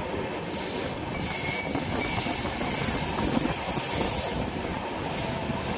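Passenger train coach running at speed, heard from its open doorway: a steady rumble of wheels on the rails with rushing air, the air noise strongest through the middle.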